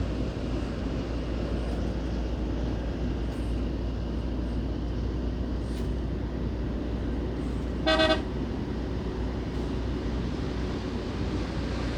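Steady road and engine noise of a car driving, with one short vehicle horn toot about eight seconds in.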